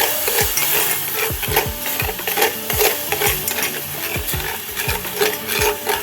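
A spoon stirring and scraping sugar in a pan as it melts and caramelises, in quick irregular strokes.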